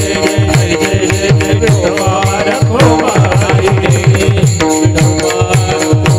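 Marathi devotional kirtan music: voices singing over steady held harmonium notes, with a hand drum playing fast strokes, about four or five a second, whose deep bass notes slide down in pitch.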